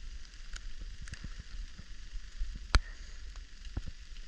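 Steady rain hiss with scattered ticks of drops landing close by, and one sharp knock a little past halfway through.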